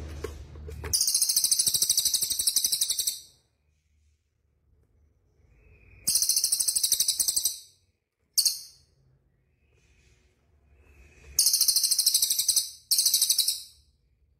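Small songbird giving very high-pitched, rapid trills in bursts of one to two seconds, four of them with a short note between, each made of quick pulses.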